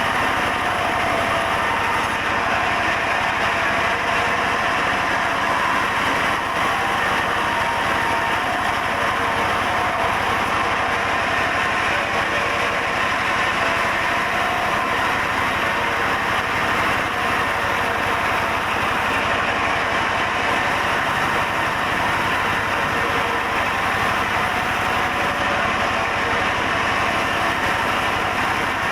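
Sawmill saw machinery running steadily, an even, continuous mechanical noise without a break.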